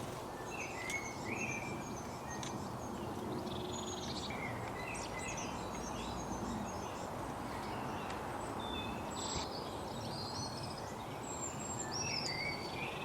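Small songbirds chirping and singing in short, quick calls over a steady background hiss of outdoor noise.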